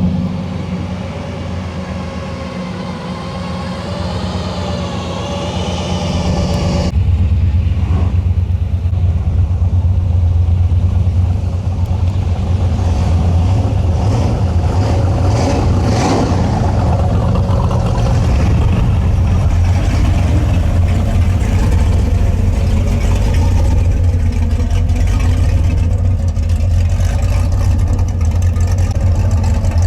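Car engines running as show cars drive in, with a loud, deep exhaust rumble that comes in suddenly about seven seconds in and holds steady.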